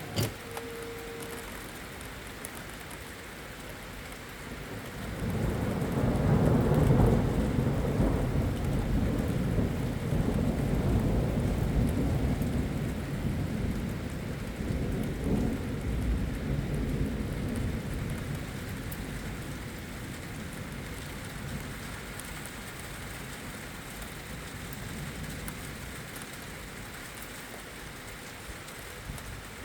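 Steady rain falling, with a long roll of thunder that builds about five seconds in, rumbles loudest for a few seconds and slowly fades out over the next ten. A single sharp click sounds at the very start.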